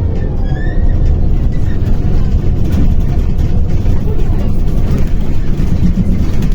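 Interior noise of a moving MAZ-105 articulated city bus: a steady low rumble of the diesel engine and road, with a faint falling whine right at the start.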